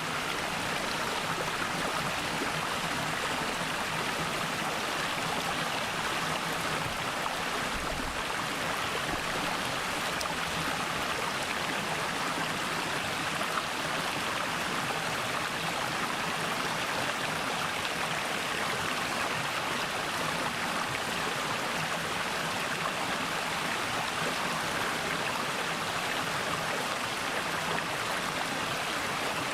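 Mountain valley stream flowing: a steady, even rush of running water.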